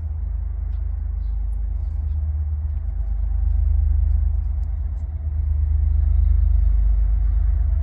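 KiwiRail freight train rumbling past, a steady low rumble that swells louder about three and a half seconds in and again about six seconds in.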